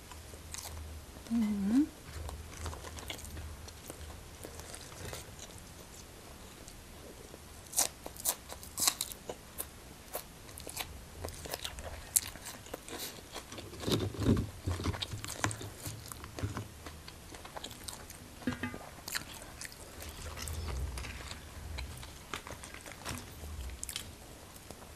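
Close-miked chewing and crunching of a mouthful of fried beef dipped in papaya-salad dressing, with sticky rice. Sharp crunches and mouth clicks come thickest from about a third of the way in, and there is a brief vocal sound near the start.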